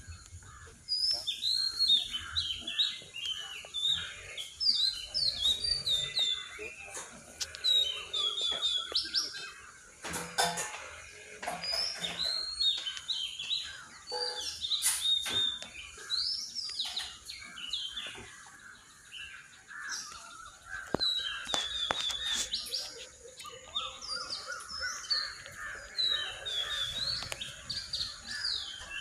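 Several birds singing and calling, short chirping phrases repeated again and again, with a few sharp knocks about ten and fifteen seconds in.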